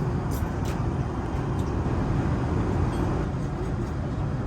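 Steady low rumble of an airliner cabin, engine and air noise, with a few light clicks near the start.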